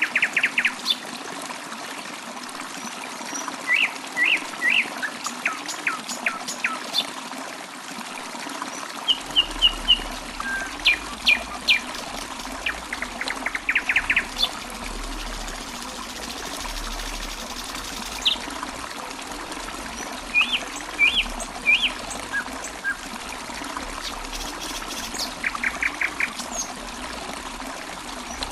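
Small birds chirping in short quick runs every few seconds over a steady trickle of running water.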